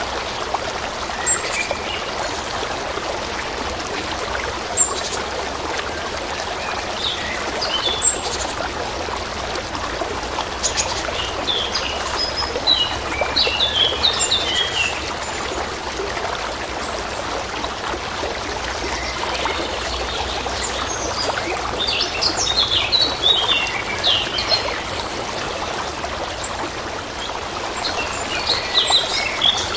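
A stream trickling steadily, with small birds chirping over it: a few sharp single calls in the first several seconds, then quick twittering runs about a third of the way in, again past the middle, and near the end.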